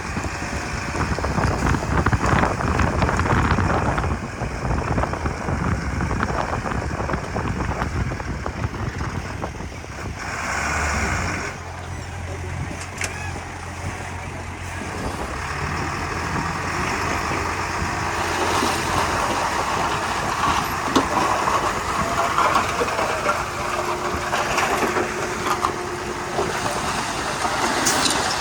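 A crawler bulldozer working: its diesel engine runs steadily under load, swelling and easing, with a constant rattle and clank of the tracks and metal grinding.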